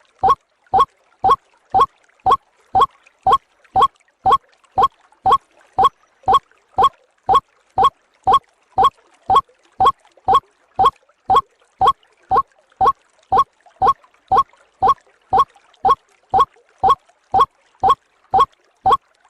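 White-breasted waterhen call played as a lure recording: one short call repeated about twice a second, at an even pace and without a break.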